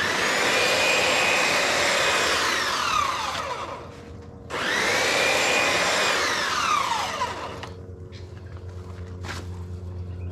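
Chainsaw revved hard twice, about three seconds each time. Each time the whine drops away as the throttle is released, and the saw settles back to a steady low idle.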